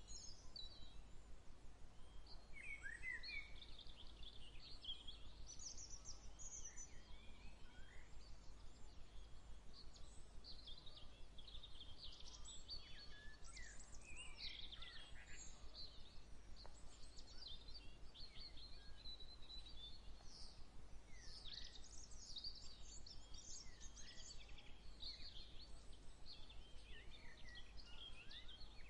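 Many songbirds chirping and singing over one another, a busy outdoor bird chorus, with a steady low rumble underneath.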